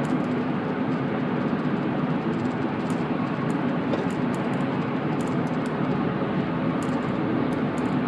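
Steady road and engine noise of a moving 2005 Honda Pilot, heard from inside the cabin: a dense rumble with a low hum beneath it.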